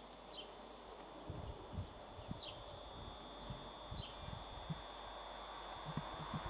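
Faint lineside ambience: a steady high-pitched insect hum, a few short bird chirps and scattered low knocks on the microphone, with the noise of an approaching train slowly building toward the end.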